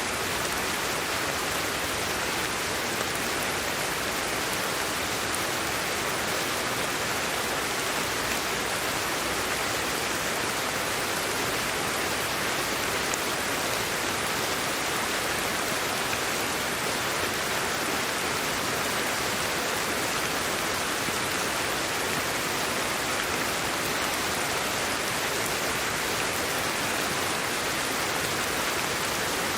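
Steady sleep-aid white noise: an even, unbroken hiss, strongest in the upper-middle range, with no changes or separate sounds.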